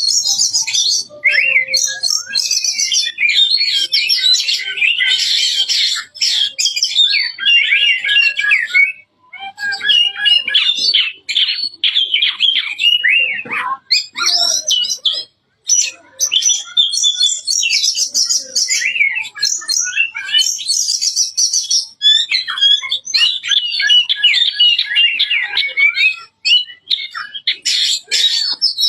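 Oriental magpie-robin singing a loud, rapid, varied song of whistled and chattering phrases, with brief pauses about nine and fifteen seconds in.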